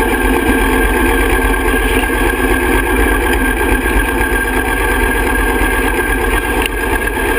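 Harley-Davidson Springer Softail Night Train's V-twin engine running steadily at idle while the bike creeps along slowly.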